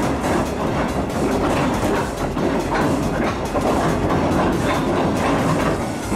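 Inside a moving diesel railcar: a steady running rumble with wheels clicking over the rail joints.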